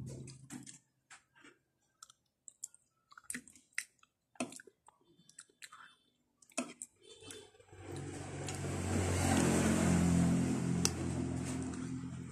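Close-up mouth sounds of eating jackfruit salad: scattered wet chewing clicks and smacks with quiet gaps between them. Over the last four seconds or so a low humming, noisy rumble swells, peaks and fades, louder than the chewing.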